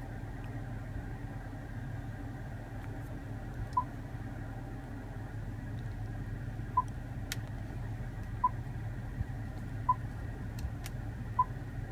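Short single-pitch touchscreen beeps from the Range Rover's centre multimedia screen, six of them at uneven intervals as the camera views are switched, over a steady low cabin hum from the running vehicle.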